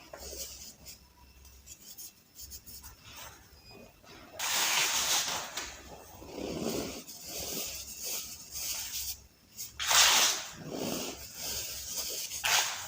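Soft balls of baking soda crumbling and being crushed: gritty crunching and rubbing. It is faint at first, then louder spells come about four seconds in and again around ten seconds.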